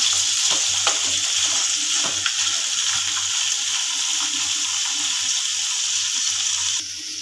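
Broad beans sizzling steadily in hot oil in an aluminium kadai, with a spatula stirring and scraping against the pan a few times in the first couple of seconds. The sizzle drops abruptly quieter near the end.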